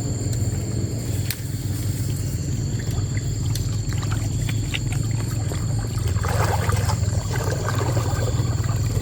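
Fast-flowing mountain stream rushing steadily, with a spell of splashing water about six seconds in.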